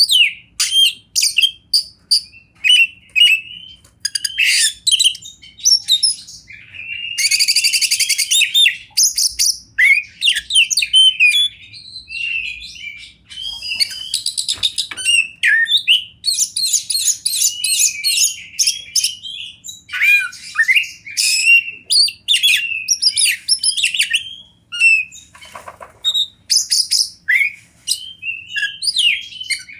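Oriental magpie-robin (kacer) singing a loud, varied song of quick whistled phrases and chirps with hardly a break. Harsh buzzy rattles come in about a quarter of the way in and again near the middle.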